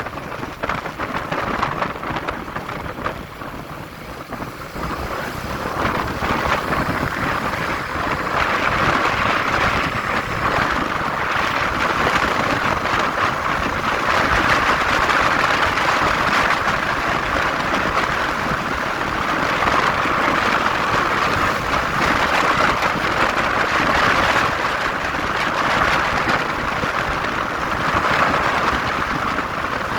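Motorcycle riding noise: wind rushing over the microphone mixed with engine and road noise, steady and growing louder about five seconds in.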